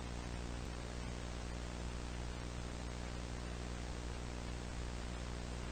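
Steady static hiss with a low electrical hum, unchanging throughout, with nothing else standing out.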